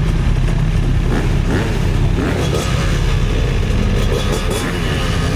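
Dirt bike engines running, with their pitch rising and falling as they rev.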